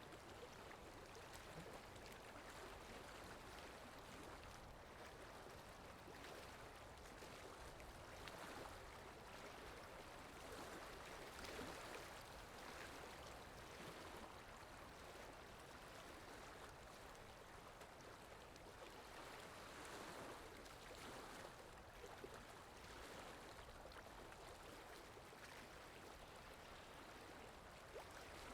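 A stream's running water, faint and steady, swelling a little now and then.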